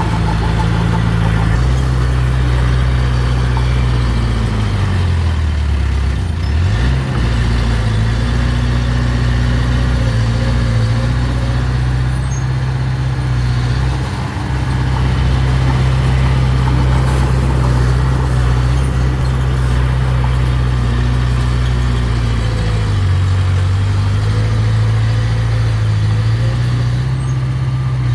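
Mini bulldozer's diesel engine running steadily, its pitch sagging and recovering as the revs change about five seconds in and again a little past twenty seconds.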